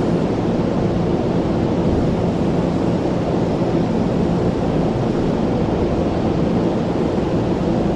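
Steady rushing hum of an Odakyu electric commuter train standing at the platform, its rooftop air-conditioning and auxiliary equipment running, with faint steady low tones underneath.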